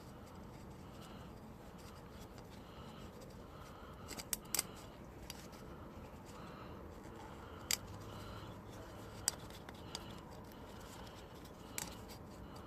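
A handful of sharp clicks and taps, a second or more apart, two of them close together about four and a half seconds in, over low background hiss.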